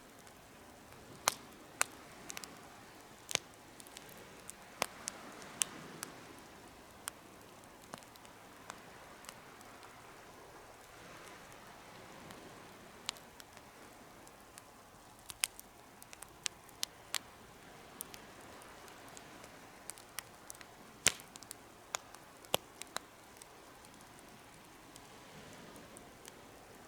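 Campfire crackling in a DIY fire pit: irregular sharp pops and snaps, some in quick clusters, over a soft steady hiss of the burning fire.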